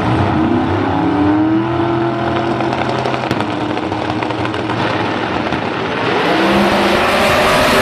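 No-prep drag racing cars' engines running, their pitch holding with slight rises and falls. About six seconds in the sound grows louder and harsher.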